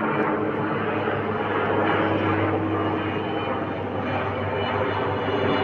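Aircraft engine noise running steadily and loudly, with a constant low hum under a broad rushing sound.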